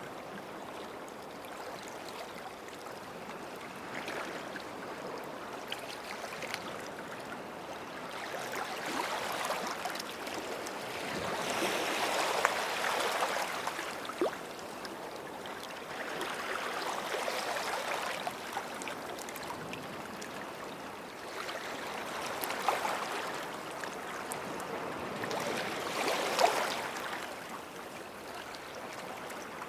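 Small waves washing onto a beach shore, each swell rising and falling about every four to five seconds, with faint fizzing and clicking as the water runs over sand and stones.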